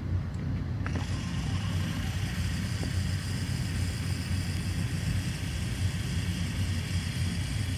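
Steady low rumble of a car idling, with a steady hiss joining about a second in.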